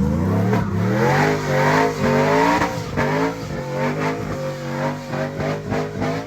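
A truck or car engine revved hard, up and down again and again, its pitch rising and falling about once a second.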